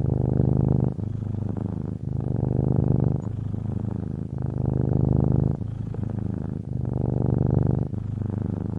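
Sleeping cat purring: a low, steady buzz that swells and eases with each breath, in and out about four times.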